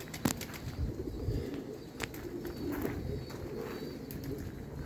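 Domestic pigeons cooing, with two brief clicks, one just after the start and one about two seconds in.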